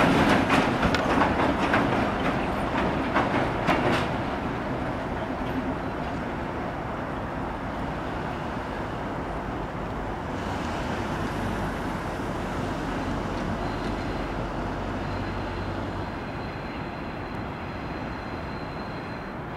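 A train rolling past, its wheels clicking over rail joints for the first few seconds, then settling into a steady, quieter rumble. A faint high steady whine is heard in the second half.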